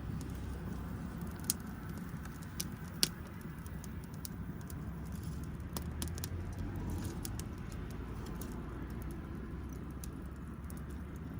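Wood fire crackling: irregular sharp pops and snaps over a steady low rumble, with two louder pops about a second and a half and three seconds in.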